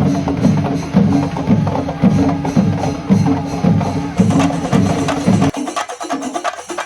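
Traditional temple-festival drumming: a percussion ensemble of the kind heard at a Kerala pooram, playing loud with a steady rhythm of deep beats under sharper strokes. A little over five seconds in, the deep beats stop abruptly, leaving denser, higher, clattering strokes.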